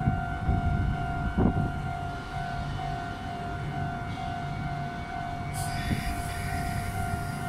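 Meitetsu Panorama Super electric train starting to pull away slowly, its low rumble under a steady two-pitch tone that keeps breaking off and resuming. A low thump comes about a second and a half in, and a hiss of air joins near the end.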